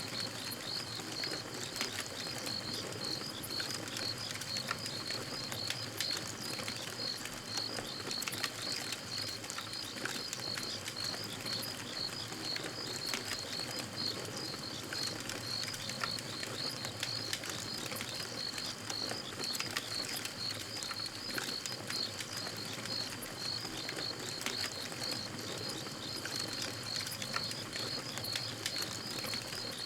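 Campfire crackling, with scattered sharp pops and snaps, over a steady high-pitched chirping from night wildlife that pulses a few times a second.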